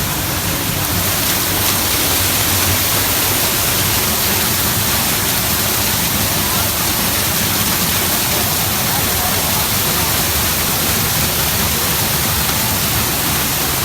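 Steady, loud rushing of water from Hogenakkal Falls on the Kaveri River, an even wash of noise with no breaks.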